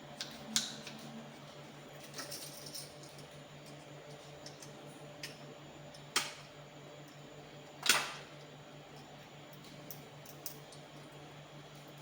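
Sharp clicks and taps at irregular intervals, the loudest about eight seconds in, as small hard parts of a motor starter are handled, over a steady low hum.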